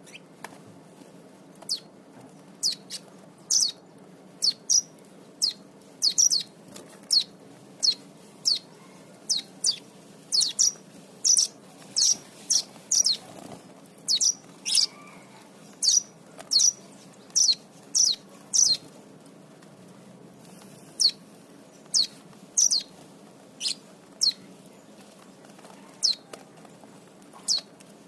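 Lovebirds making sharp, high-pitched chirps, each a quick downward sweep, one or two a second with short pauses.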